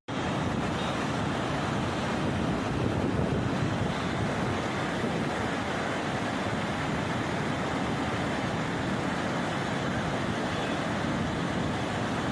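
Floodwater rushing in a steady, unbroken roar of water noise that starts suddenly.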